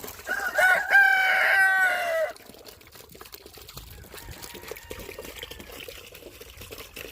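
A rooster crows once, a call of about two seconds near the start, the loudest sound here. After it, water trickles quietly into a chicken waterer from a hose.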